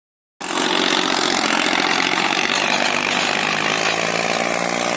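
Farmtrac 60 tractor's diesel engine running steadily under load while pulling a harrow. It starts abruptly about half a second in and holds an even pitch.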